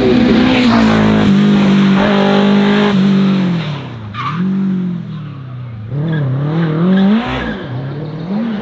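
Racing car engine at high revs. Its pitch steps down at two gear changes, then falls and rises several times as the car brakes and accelerates through bends. A short tyre squeal comes about four seconds in.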